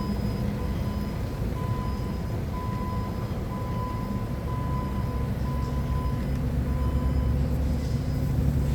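Forklift engine running steadily, picking up a little in pitch and level about halfway through, with a high electronic beep repeating on and off over it, like a forklift's reversing alarm.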